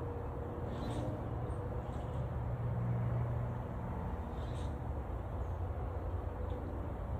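A newly hived honeybee colony humming: a steady low drone of many beating wings, with a few faint high chirps over it.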